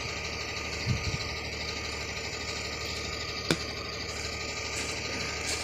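Tipper truck's engine running steadily at low revs while driving the hydraulic tipping jack that raises the loaded bed, with one sharp click about three and a half seconds in.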